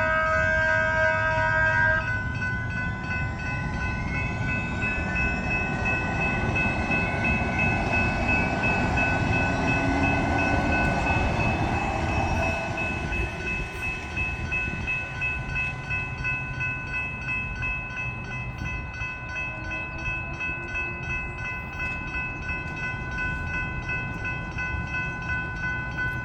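A train horn sounds and cuts off about two seconds in, then the train passes, its noise building to a peak and fading. Throughout, the crossing's General Signals Type 3 electronic bells keep ringing.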